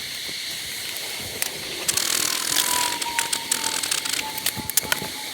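Wooden hive frames knocking and scraping as the last frame is set into a hive box, with a cluster of sharp clicks from about two seconds in, over the steady hum of honey bees.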